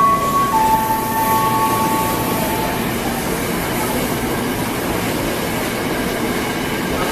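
Electric commuter train running past the platform at speed: a steady rush of wheels on rail with some clickety-clack. A few held whining tones are heard in the first three seconds and then stop.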